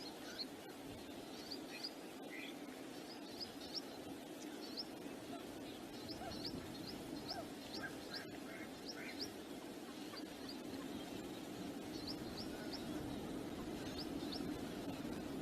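Small birds chirping, short high notes in quick runs, over a steady rush of wind.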